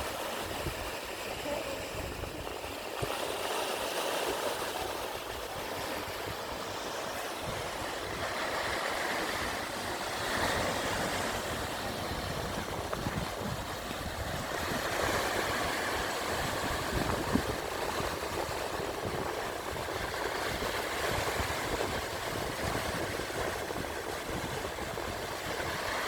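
Sea waves washing in steadily, swelling about every five to six seconds, with wind rumbling on the microphone.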